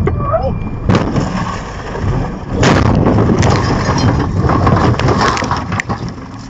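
Road vehicle collision: a sharp bang about a second in, then a loud stretch of clattering, crunching noise lasting about three seconds.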